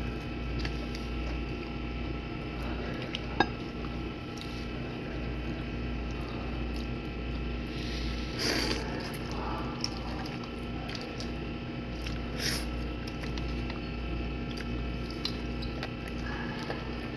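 Close-up wet chewing and mouth sounds of a person eating barbecued chicken with her fingers, sucking the food off her fingertips. A sharp click about three seconds in, over a steady background hum.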